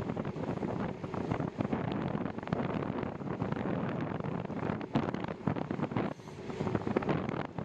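Wind buffeting the microphone of a bike-mounted camera while riding: a gusty rumble with irregular thumps and crackles.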